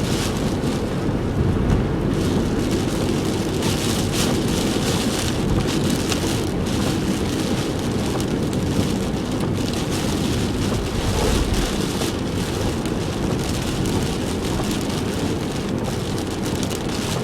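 Heavy typhoon rain beating steadily on a car, a dense hiss full of drop hits, over a low rumble of road and engine noise.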